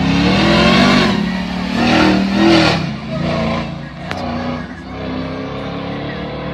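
A car engine revved twice in quick succession, the pitch rising each time, then settling back to a steady idle.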